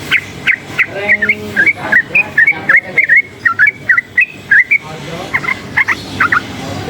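Yellow-vented bulbul (trucukan) singing a fast run of short whistled notes, about four a second, with a brief pause near the end before it carries on.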